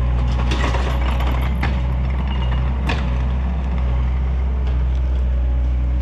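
Takeuchi TL130 compact track loader's diesel engine running steadily under load, with several sharp cracks in the first three seconds as the machine works a tree.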